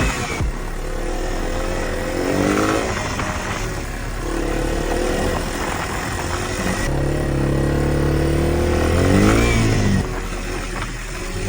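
Yamaha TW200's single-cylinder four-stroke engine running under way, its pitch rising and falling with the throttle and dropping abruptly about ten seconds in.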